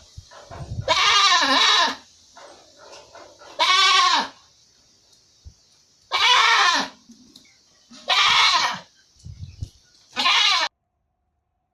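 An animal bleating: five loud, quavering calls, each under a second long and about two seconds apart. The sound cuts off suddenly near the end.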